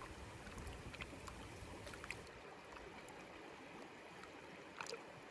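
Faint running water of a stream, an even rushing hiss with a few small clicks.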